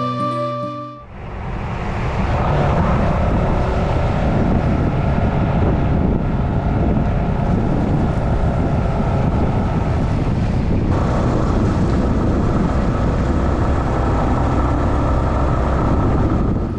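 Yamaha Serow 250 single-cylinder motorcycle being ridden, with engine and heavy wind noise on the on-board microphone; the steady rush changes slightly partway through and cuts off sharply at the end.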